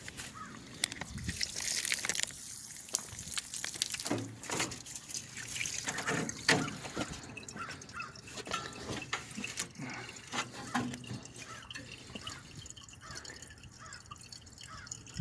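Water running and dripping as a garden hose flushes the cooling system of a slant six engine, with scattered small clicks and knocks.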